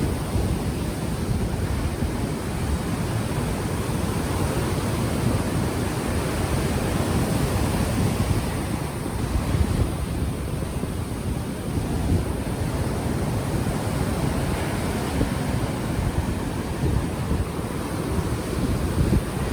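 Ocean surf washing in steadily, with gusty wind buffeting the microphone, which has no windscreen, so a low rumble runs under the waves.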